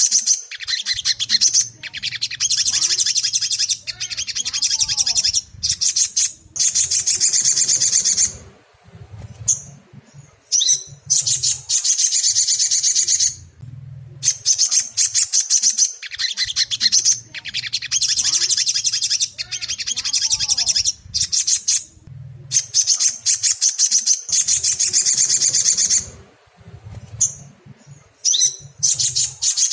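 Little spiderhunter (sogon) calls: bursts of rapid, high-pitched chattering notes a few seconds long separated by short pauses, the same sequence repeating as a looped recording used to provoke a caged bird into singing. A low hum runs underneath.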